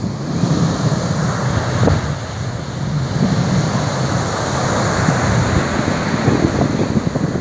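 Surf washing on the shore, with wind buffeting the microphone.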